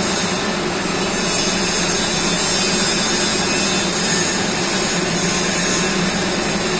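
Steady, loud industrial machinery noise inside a large steel oil storage tank: an unbroken hiss with a constant low hum and no pauses or impacts.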